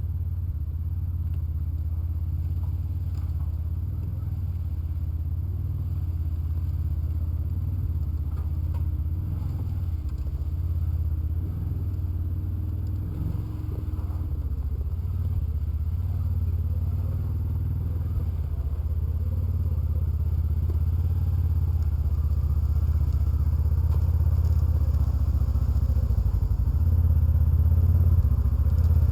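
Polaris Ranger side-by-side's engine running steadily while driving, a low rumble that slowly grows louder.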